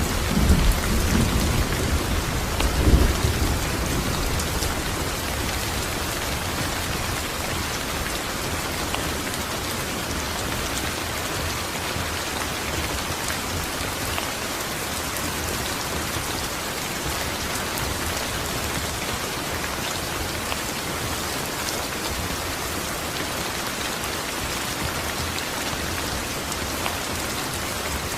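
Steady rain falling, with a low rumble of thunder that swells about three seconds in and dies away by about four seconds, leaving only the even hiss of the rain.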